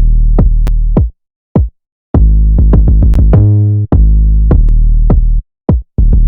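Electronic hip-hop beat playing: drum-machine hits over deep sustained synth bass notes. It cuts off abruptly about a second in and again near the end, then restarts each time.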